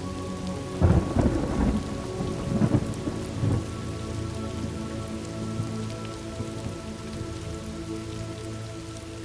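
Thunderstorm ambience: steady rain falling, with a clap of thunder about a second in that rolls and rumbles for nearly three seconds before dying away under the rain.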